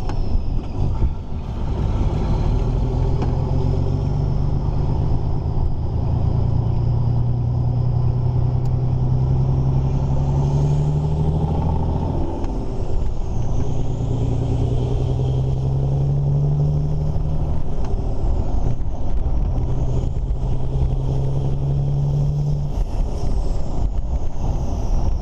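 Volvo F16 lorry's diesel engine pulling hard, heard inside the cab, its pitch climbing steadily and dropping sharply at each gear change, twice, as the truck works up through the gearbox.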